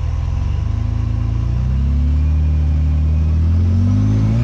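Jeep engine revving under load as it crawls up a steep rock ledge. It rises in pitch about a second and a half in and holds there.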